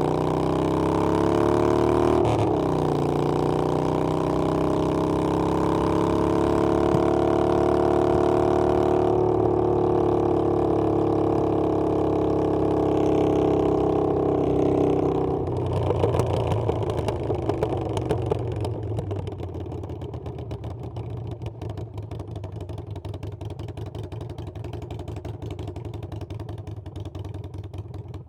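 Harley-Davidson Iron 883's air-cooled 883 cc V-twin under way: its pitch rises on acceleration, dips once at a gear change about two seconds in, then climbs steadily. About fifteen seconds in the throttle closes, and the engine drops to a quieter, low rhythmic beat as the bike slows.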